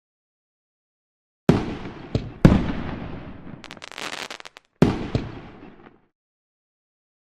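Fireworks bursting after a silent start: three main booms at about a second and a half, two and a half, and five seconds in, each dying away over about a second. Smaller pops follow the first and last booms, and a short run of crackling comes between the second and third.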